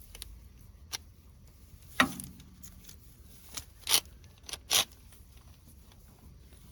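A few scattered sharp clicks and knocks. The loudest comes about two seconds in and has a short low ring after it, and two more sharp knocks follow near the middle.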